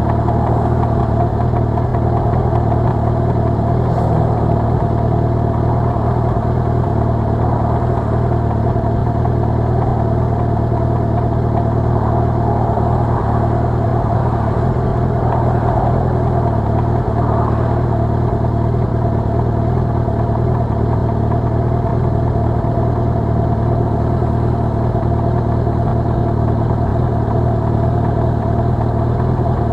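Suzuki Hayabusa's inline-four engine idling steadily at a standstill, with the sound of cross traffic passing around it.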